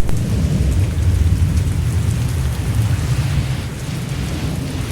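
Thunderstorm: steady rain with a low rolling rumble of thunder that is strongest at the start and slowly fades.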